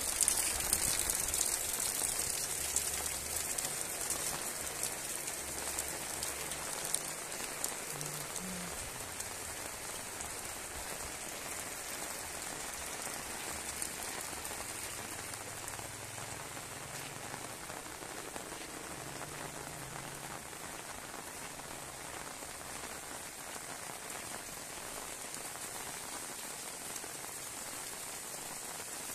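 Heavy rain falling steadily on paths and puddles, a dense even hiss, a little louder in the first few seconds.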